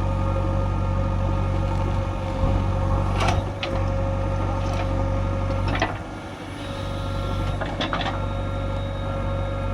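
Heavy diesel engine of a backhoe or tractor running steadily, with a few sharp clanks: two about three seconds in, one near six seconds and two near eight seconds.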